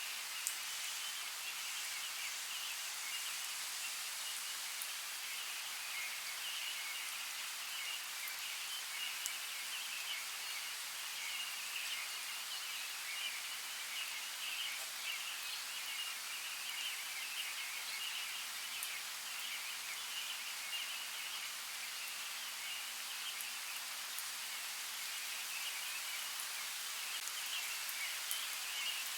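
Steady running water of a forest creek, with a high, fluttering chorus that never stops.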